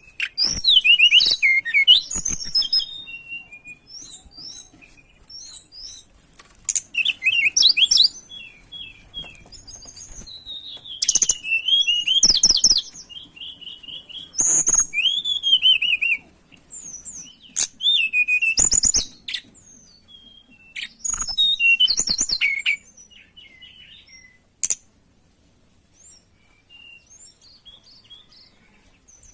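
Tledekan gunung songbird singing energetically: high, quick twittering and warbling phrases in bursts of a second or two, separated by short pauses, dying down to a faint phrase near the end.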